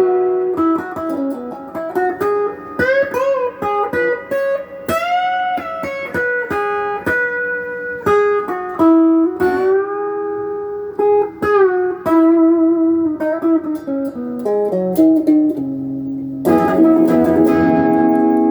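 Electric guitar on its bridge pickup, played through a Crate GX15R amp and a Golden Plexi overdrive pedal: a blues-style single-note lead with string bends and vibrato, then a fuller sustained chord near the end.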